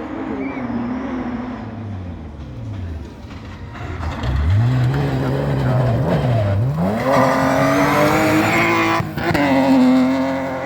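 Rally car engine accelerating hard through the gears, its pitch climbing and then dropping sharply at each gear change. It grows louder about four seconds in.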